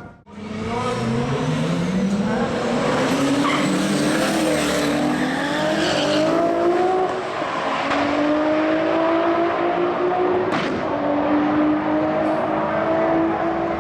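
High-powered race car engines at full throttle in a roll race, the note climbing steadily in pitch and dropping back at each upshift. There is a brief sharp crack at a shift about ten and a half seconds in.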